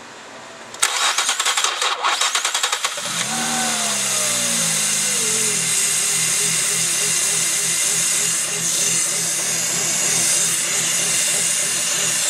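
A fourth-generation Nissan Maxima's 3.0-litre V6 is cranked on the starter for about two seconds and catches. The revs start high and fall away over a couple of seconds, then settle into a steady idle with a slight regular waver.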